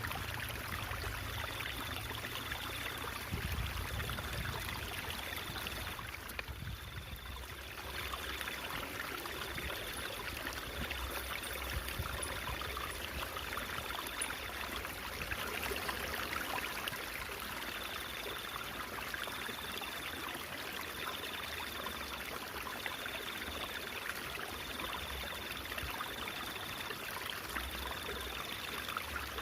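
Stream water trickling and babbling steadily, briefly softer about seven seconds in. A faint high tone pulses on and off in the background about once a second.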